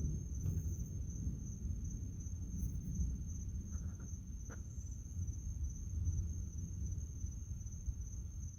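Night insects, crickets, trilling in one steady high continuous tone, over a low rumbling background noise.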